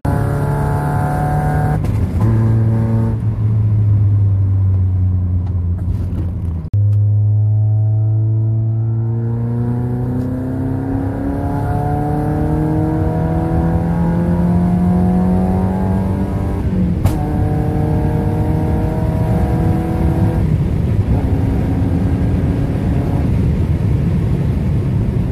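Mazda MX-5 Miata's four-cylinder engine heard from inside the cabin, pulling hard through the gears: the pitch climbs steadily in long pulls and steps down at each gear change. About 17 s in, a sharp crack comes at a shift made flat out with the WOT Box cutting the ignition.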